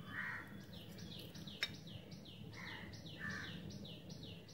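Faint birdsong: a bird repeats a short falling chirp about three times a second, with a few harsher calls from other birds. One sharp click comes about one and a half seconds in.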